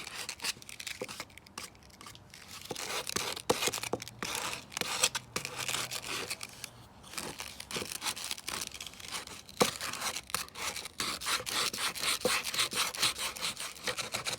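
Sandpaper rubbed by hand over a toy horse in quick, irregular scratchy strokes, scraping off its felt coat, with a few sharp clicks in between.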